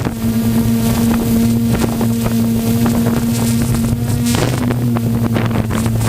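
An engine running at a steady speed, a constant low hum, with wind blowing on the microphone. The hum drops out briefly about four seconds in.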